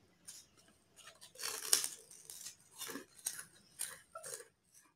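Chewing of crispy batter-fried tempe gembus (tempe gembus kemul), a string of short crisp crunches, the loudest about one and a half seconds in.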